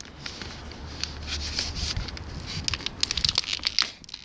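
A plastic bottle crinkling and clicking in clusters as it is worked into place against a bicycle, with wind rumbling on the microphone.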